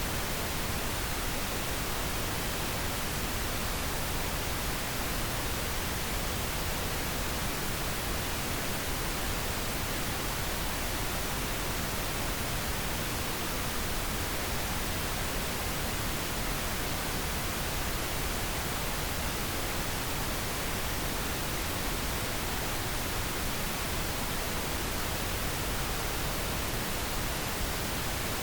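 Steady pink noise: an even, unchanging hiss at a constant level.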